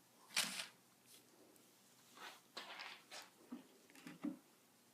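Faint handling sounds of wood putty being worked into a gap in a wooden window sill: a short click about half a second in, then a few quiet scrapes and taps.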